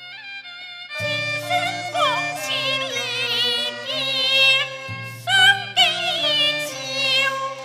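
Cantonese opera accompaniment ensemble playing an instrumental passage between sung lines, the melody carried by a bowed string with wide vibrato over a steady lower accompaniment. It is soft for the first second, then comes in fully.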